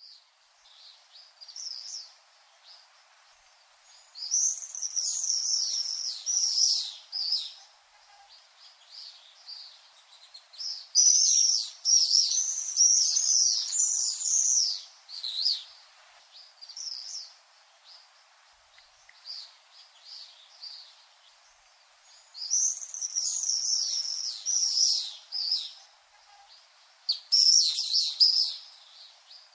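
Common swifts screaming: shrill, high trilling screams in four bursts of a few seconds each, with fainter single calls between the bursts.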